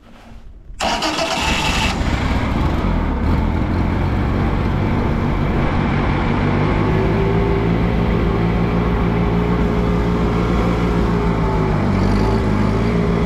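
Allis-Chalmers G tractor's four-cylinder gasoline engine starting about a second in, then running steadily. It is a restart after the engine stalled in the cold, and the owner suspects a carburetor gummed up by stale gas.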